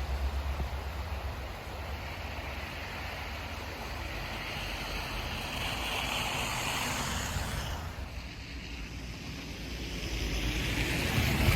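Outdoor street ambience in falling snow: tyre hiss of vehicles passing on a slushy road, swelling twice as they go by, over a steady low wind rumble on the microphone.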